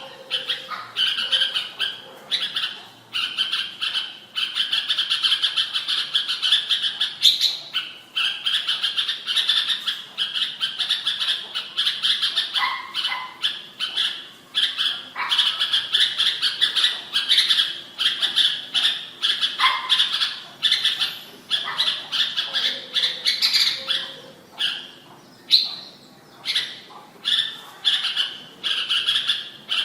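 Red-whiskered bulbul (Vietnamese strain) singing: a dense, nearly continuous stream of short chirping notes and phrases.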